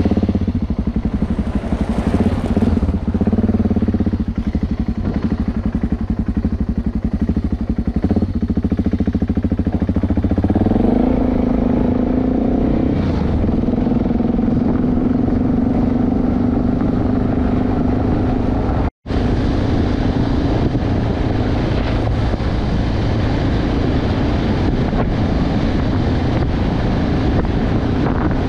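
BMW G650GS Sertão's single-cylinder engine running as the motorcycle rides along a gravel road. The engine note steps up about ten seconds in and then holds steady. The sound drops out for an instant near the twentieth second.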